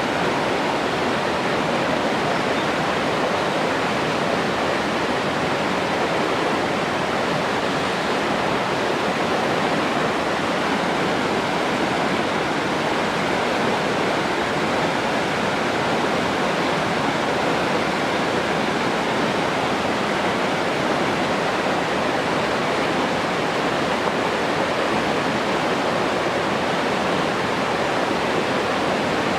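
Rushing water, a steady even hiss that does not change.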